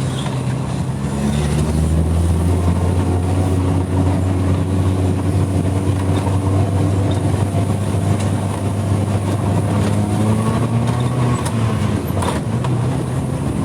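Vehicle engine running steadily under load while climbing a street, its note rising gently and easing off near the end.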